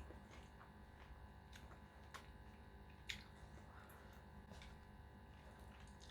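Faint eating sounds: scattered soft mouth clicks from chewing over a low steady hum, the clearest click about three seconds in.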